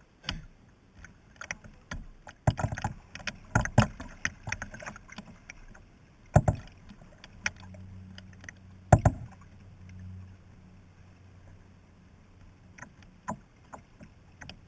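Kayak paddling: paddle strokes through the water, with a dozen or so sharp knocks of the paddle against the kayak, two of them louder about six and nine seconds in. A faint low hum sits under the strokes midway.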